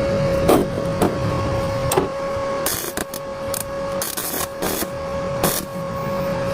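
A small electric motor running steadily with a level hum, broken by several short hissing bursts about halfway through.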